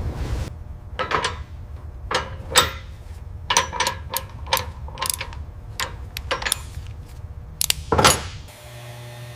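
A series of irregular sharp mechanical clicks and knocks, with a louder knock near the end followed by a steady low hum.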